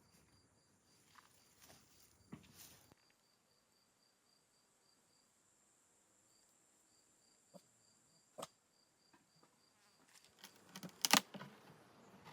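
An insect chirping steadily, with high chirps about four a second. A few sharp clicks and knocks break in, the loudest a quick cluster of knocks near the end.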